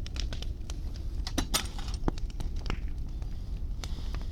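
Large wood bonfire crackling, with frequent irregular sharp pops and snaps over a steady low rumble.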